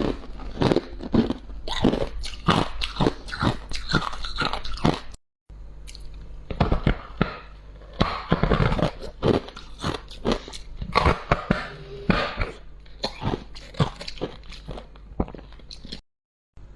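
Close-miked biting and chewing of freezer frost: a fast run of crisp crunches. The sound cuts out abruptly twice, once about five seconds in and again near the end.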